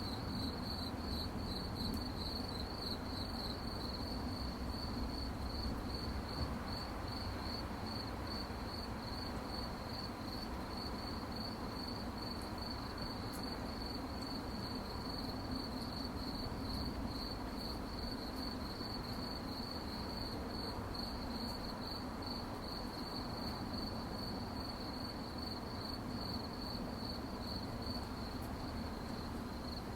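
Crickets chirping: a steady, fast-pulsing high trill that runs on without a break, over a low, steady background rumble.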